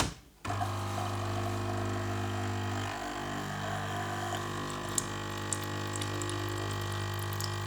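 Bosch Tassimo Suny coffee machine starting its rinse cycle: a click, then about half a second in its water pump comes on with a steady buzz as water is pumped through the machine to flush it after descaling.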